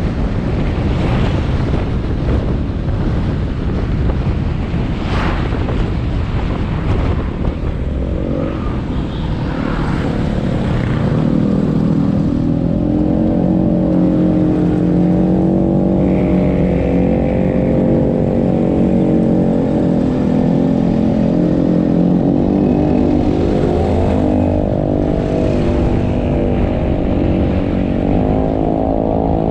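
Motorbike engine running during a ride, with wind and road noise strong over the first ten seconds or so. From about twelve seconds in the engine note comes through clearly, rising and falling with the throttle, and climbs again near the end.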